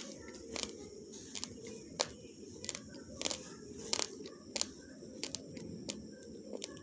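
Raw, uncooked basmati rice grains being crunched between the teeth: sharp crunches roughly every half second over a low chewing rustle.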